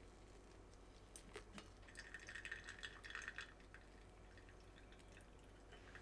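Near silence with faint handling sounds: a few light clicks about a second in, then a brief spell of small crackling ticks.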